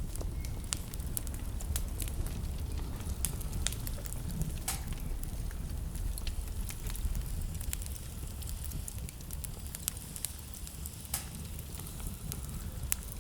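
Wood fire crackling, with scattered sharp pops and snaps, over a steady low rumble of blizzard wind.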